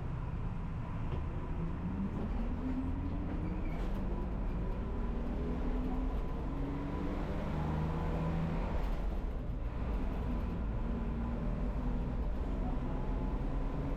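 Old non-air-conditioned city bus running, heard from on board: a steady low rumble of engine and road, with the engine note rising in pitch a few times as the bus picks up speed.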